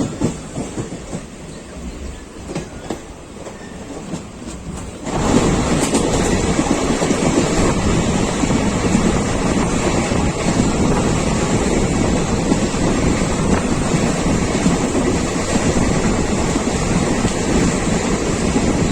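Passenger express train running, its wheels clacking over rail joints, heard from on board. About five seconds in, the sound jumps suddenly to a much louder steady rush of wind and wheel noise.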